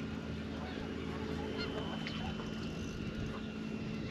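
Geese honking in the distance over a steady low hum.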